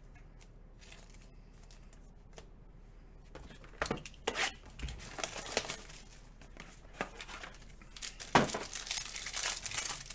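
Plastic card packaging being crinkled and torn open by hand in irregular rustles with small clicks, starting about four seconds in, with one sharp click about eight seconds in.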